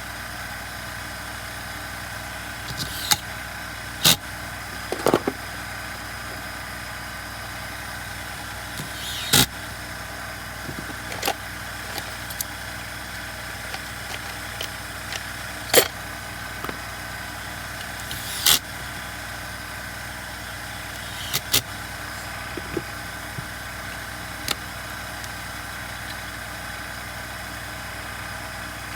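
Scattered sharp clicks and knocks of a screwdriver and small screws being handled on a chainsaw's plastic and metal housing, about a dozen in all, over a steady background hum.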